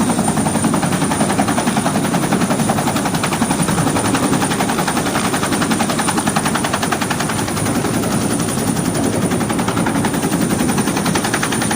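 Helicopter running steadily overhead: a rapid, even rotor chop with a steady high whine, unbroken throughout.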